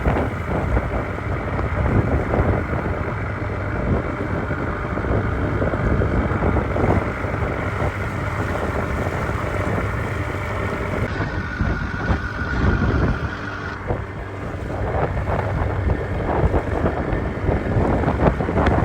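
Wind buffeting the microphone over the rush of water along the hull of a small boat under way.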